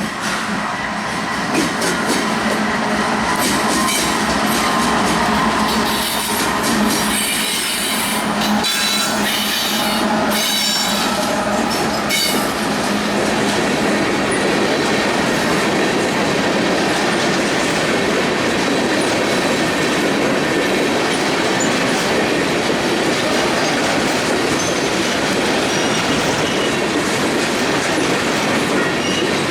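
Empty coal train rolling past at close range: steel wheels clatter over the rail joints, with high-pitched wheel squeal during the first dozen seconds, then a steady rolling noise.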